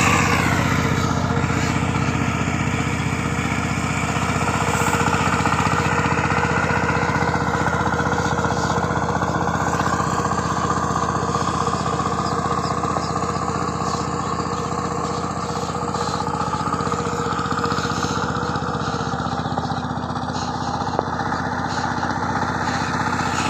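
Diesel engine of a walk-behind power tiller running steadily, its pitch dipping slightly in the first second.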